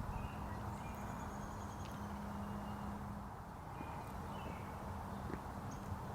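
Outdoor ambience with several short, faint bird chirps and whistles over a steady low hum.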